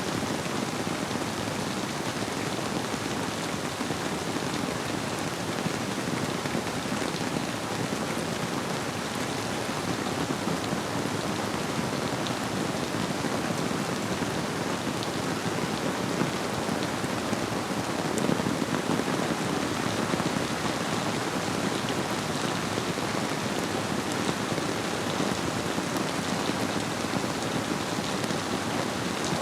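Steady rain falling, a dense patter of many drops hitting a surface, blended with the rush of a flowing river.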